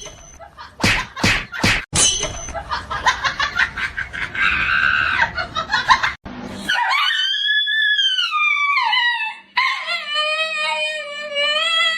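A dog howling: one long howl that rises and falls, then a second, higher howl held fairly steady. Before the howls come a run of short, sharp clicks and rapid pulses.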